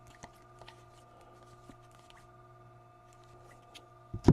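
Trading cards being flipped and slid against one another, a run of faint soft clicks and rustles over a steady low hum, with one louder knock near the end.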